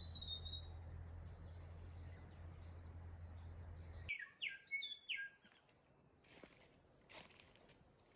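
Wild birds chirping, faint: a high note near the start, then a quick run of short falling chirps about four seconds in. A steady low rumble underneath cuts off suddenly just before the chirps.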